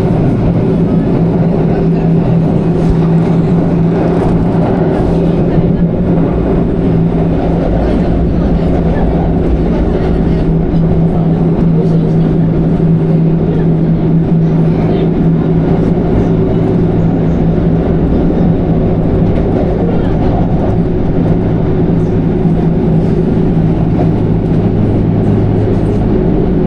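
Train running along the line, heard from inside the carriage: a steady rumble with a constant motor hum, and a lower hum joining about two-thirds of the way through.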